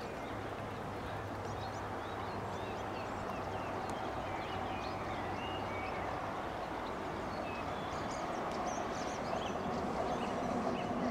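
Electric multiple-unit train approaching from a distance, a steady running noise that grows slowly louder, with birds chirping.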